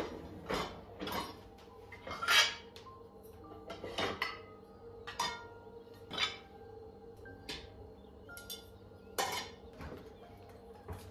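Irregular clinks and clatters of hard objects, about a dozen, some ringing briefly, the loudest about two seconds in and again near the end, over a faint steady hum.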